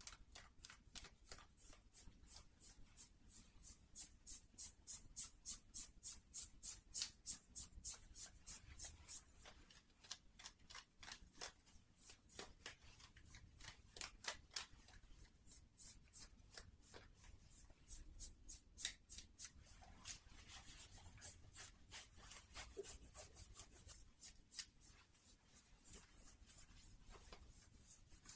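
Fingertips rubbing and scratching cotton sock fabric in quick, even strokes, about three a second, turning slower and less regular in the second half.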